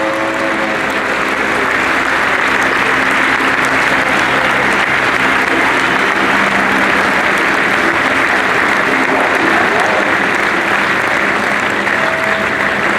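Large crowd applauding, a steady dense clatter of clapping throughout, as a motorcycle's engine note fades out right at the start.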